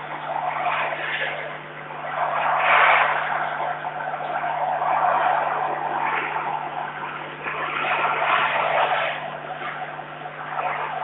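Strong, gusty wind buffeting the microphone, rising and falling in surges with the strongest gust about three seconds in, over a steady low hum.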